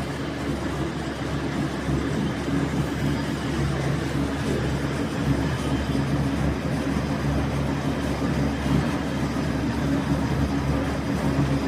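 Steady mechanical hum and rumble, with a few constant low tones over an even noise and no changes.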